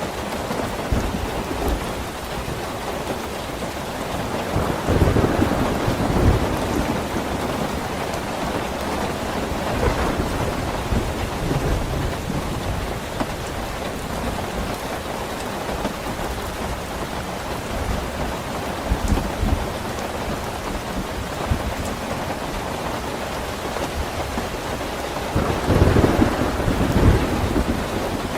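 Steady rain falling, with low rolls of thunder; the two loudest come about five seconds in and near the end.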